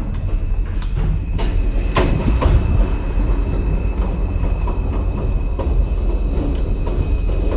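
Rumble of an NYC subway train (M line) heard from inside the car, with a few sharp clicks of the wheels over rail joints in the first seconds and a faint steady high whine.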